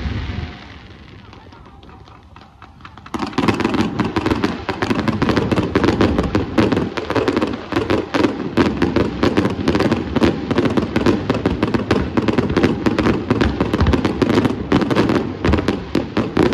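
Fireworks display: after a short lull, from about three seconds in, a dense, continuous barrage of crackling bursts.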